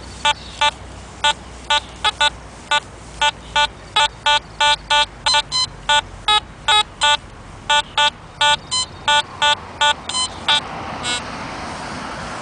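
Metal detector giving a quick run of short electronic beeps as the coil is swept over the ground, some higher in pitch than others, with the beeps dying out and a steady hiss rising near the end.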